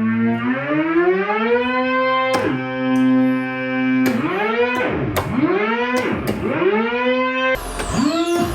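Moog modular synthesizer playing one buzzy tone that glides up in pitch and holds. From about halfway it breaks into repeated swooping pitch sweeps, which come faster near the end.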